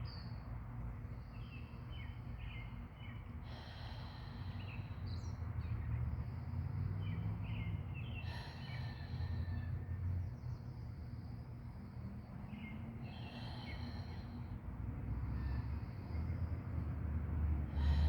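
Wild birds chirping and singing in short repeated phrases over a steady low background rumble.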